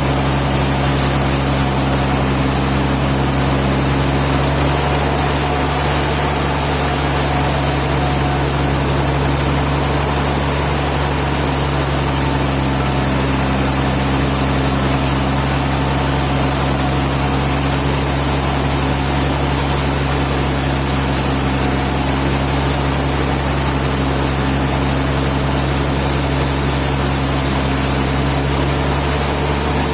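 Sawmill machinery running steadily: a constant engine-driven hum with steady low tones and no changes.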